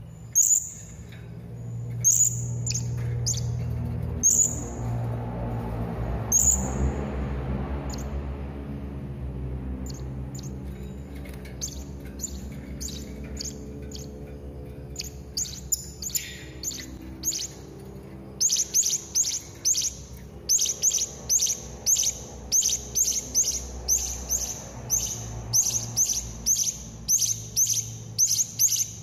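Hanging parrot (serindit) giving short, high, thin chirps, spaced out at first, then a quick run of about two a second from about two-thirds of the way through, over a steady low hum.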